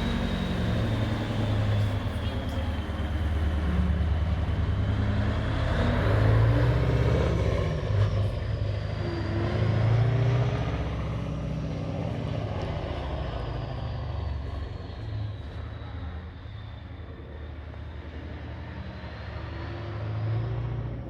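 Scania 141's 14-litre turbo V8 diesel running while the truck is under way, a deep steady rumble with a thin high whine that drifts slowly up and down in pitch. The engine gets quieter in the second half, then picks up again near the end.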